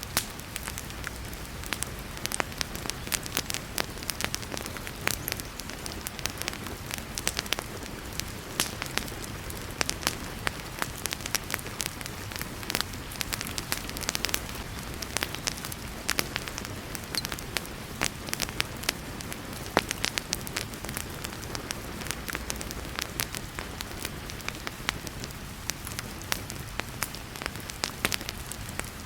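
Wood fire crackling in a fireplace, with frequent sharp pops, over the steady hiss of heavy rain.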